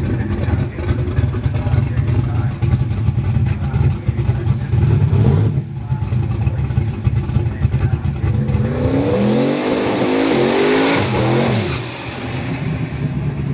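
Turbocharged small-block Ford Windsor V8 drag car running with an uneven beat, then launching at about eight seconds. The engine pitch climbs steeply as it accelerates away, with a faint high whistle rising alongside, and the sound drops off near the end.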